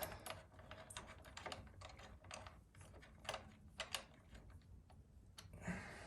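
Faint, irregular light clicks and taps of small metal bolts and hand tools being handled as the rear-set bolts are fitted.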